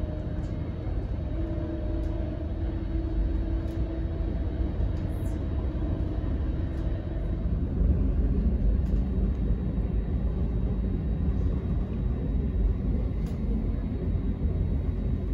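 Cabin noise on the upper deck of a double-deck regional train: a steady low rumble of the running train, with a faint hum in the first few seconds, as the train slows along a station platform.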